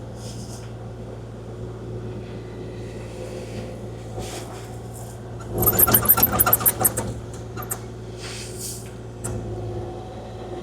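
Kubota KX040-4 mini excavator's diesel engine running steadily. About five and a half seconds in comes a loud burst of rapid rattling and clattering lasting over a second, the loudest sound here.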